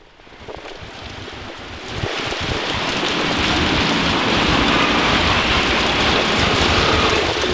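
Heavy rain pouring down, a steady hiss that fades in over the first couple of seconds and then holds.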